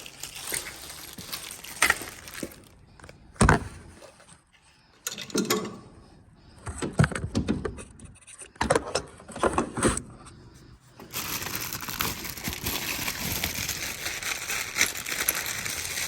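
Plastic packaging being rustled and hardware clattering as a wrapped heat pump unit is handled. A few sharp knocks come in the middle, then steady crinkling of plastic toward the end.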